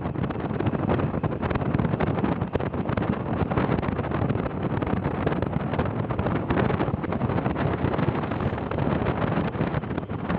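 A vehicle on the move with wind rushing over the microphone: a steady dense rumble broken by frequent short knocks and buffets.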